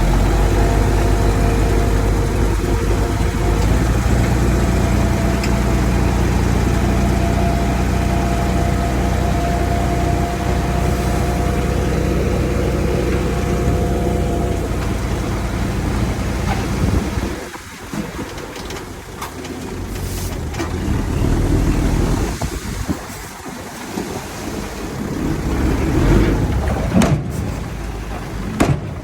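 Diesel engine of heavy earthmoving machinery running steadily and loud. About two-thirds of the way through it drops away, then rises and falls unevenly, with a few sharp knocks near the end.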